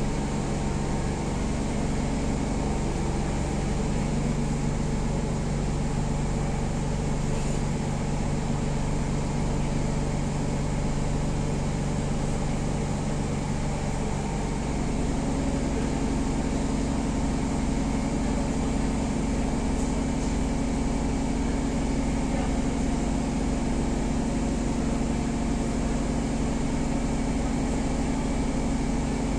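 Steady mechanical hum from a Siemens C651 train car's onboard auxiliary equipment while it stands with its doors open. A second, higher steady hum joins about halfway through.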